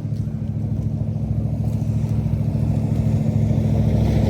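A motor vehicle driving slowly along an icy road toward the listener, its engine running at a steady pitch and growing gradually louder as it approaches.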